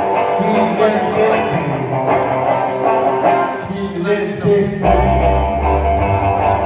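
Live rock music at a sound check: electric guitar playing with the band, with strong deep bass notes coming in about five seconds in.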